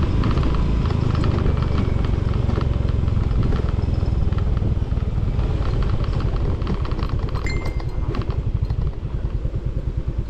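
Motorcycle engine running, then slowing about two-thirds of the way in to an idle with an even, pulsing beat.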